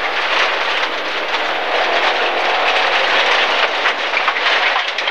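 In-car sound of a 1.4-litre MG ZR rally car driven hard on a gravel stage: the engine running under load beneath a dense, steady rush of tyre and gravel noise, flecked with constant rattling of loose stones against the car.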